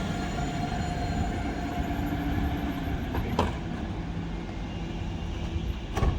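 Alstom Citadis 402 tram pulling in, its traction motors and running gear giving a steady rumble with a hum of steady tones that fade out about two and a half seconds in. A sharp click sounds about three and a half seconds in and another near the end.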